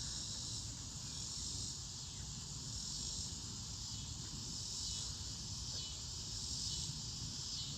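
Steady high-pitched chorus of insects chirring, with a low rumble underneath.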